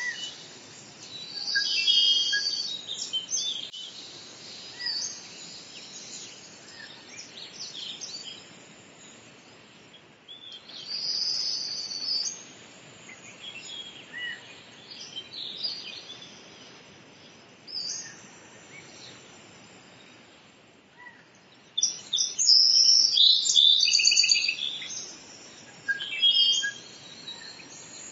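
Several birds chirping and singing as a nature soundtrack: scattered single chirps with a few louder bursts of quick, trilled song, the longest and loudest near the end.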